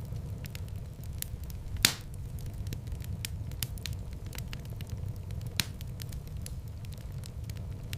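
Wood fire burning in a fireplace: a steady low rumble of flames under constant small crackles, with a louder pop about two seconds in and another past the middle.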